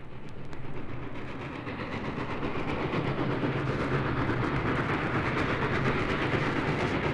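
A train running on rails, growing steadily louder as it approaches.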